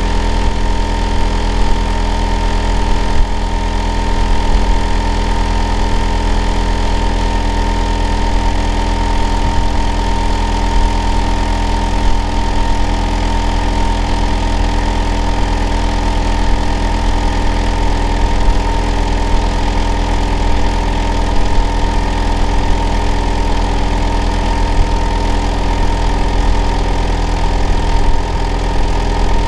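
Hitachi air conditioner outdoor unit running steadily and loudly: a deep drone with a constant whine on top.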